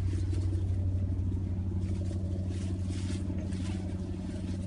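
A steady low hum, with faint scattered rustling over it.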